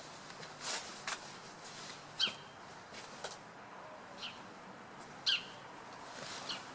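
Bird giving three short, sharp calls that fall in pitch, spaced a second or two apart, with a few soft swishes between them.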